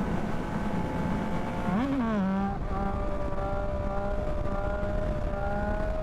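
Yamaha MT-09 inline three-cylinder motorcycle engine running on the road under steady wind rush, with a brief rise and fall in engine pitch about two seconds in.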